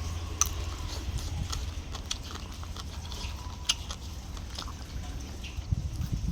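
Close-up eating sounds: chewing, with scattered short wet clicks and smacks of the mouth over a steady low rumble.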